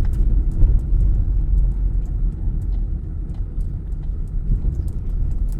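Car engine running with low rumble heard inside the cabin, with the hazard-light flasher clicking steadily and faintly.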